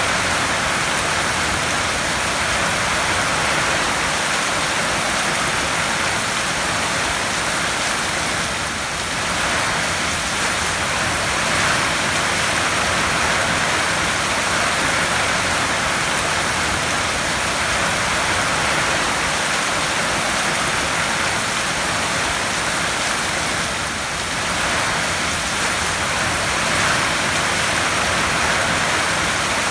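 Heavy rain drumming steadily on a tin roof, a dense, even hiss of drops on metal that eases slightly for a moment twice.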